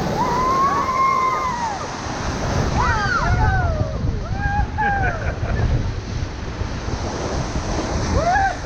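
Ocoee River whitewater rushing steadily around a raft, with people on board letting out a few rising-and-falling whoops over the roar of the rapid.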